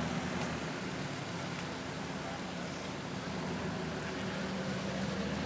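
A car engine idling steadily close by: a constant low hum with a faint background of other traffic.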